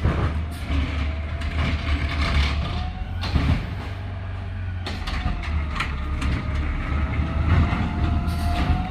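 Garbage truck's engine running, with a whine that slowly rises in pitch and several sharp metallic clanks.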